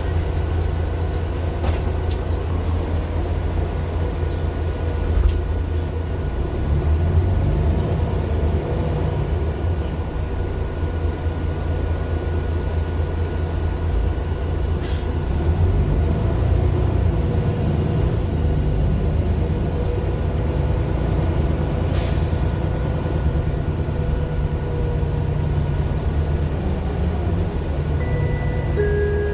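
Mercedes-Benz Citaro LE city bus heard from inside the cabin while driving: its Daimler OM 457 hLA six-cylinder diesel gives a steady low rumble that swells and eases a few times as the bus pulls and the ZF automatic gearbox works through the gears. Near the end an electronic chime starts, the onboard gong ahead of a stop announcement.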